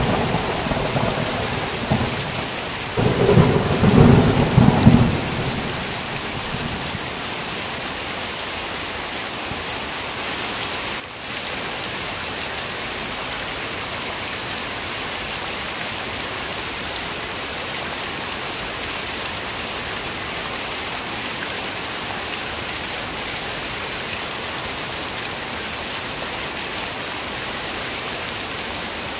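Heavy rain falling steadily, with a loud roll of thunder about three seconds in that dies away by about six seconds.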